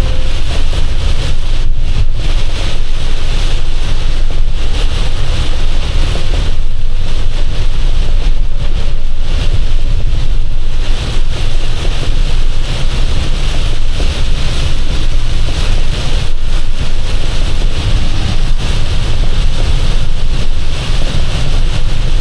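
Heavy rain and road spray hitting a box truck's cab and windshield over the steady low rumble of the engine and tyres on a wet highway, heard from inside the cab.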